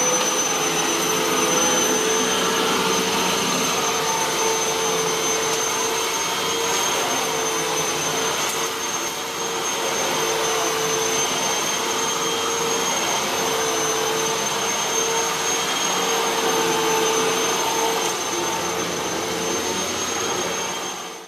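Hoover WindTunnel T-Series bagless upright vacuum cleaner running steadily at full speed, its motor giving a high, steady whine over a rushing hum. The sound cuts off suddenly at the end.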